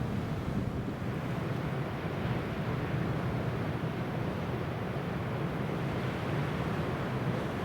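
Steady wind buffeting the microphone, a constant low rushing noise.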